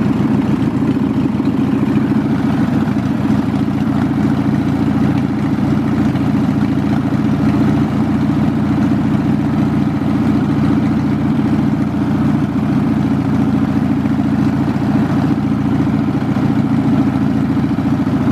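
Craftsman LT1000 riding lawn mower's engine running steadily just after a cold start, still on choke.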